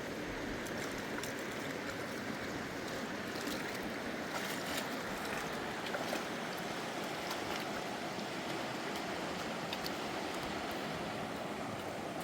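Fast-flowing mountain river rushing steadily, with a few faint clicks scattered through it.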